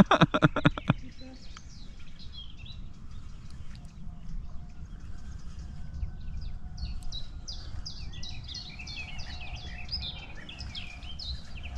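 A songbird singing a fast series of short chirping notes through the second half, over a steady low rumble of wind on the microphone. A quick run of about ten short sounds opens it.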